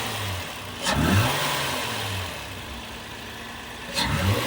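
Car engine revved twice, once about a second in and again near the end, each time rising sharply and dropping back to a steady idle.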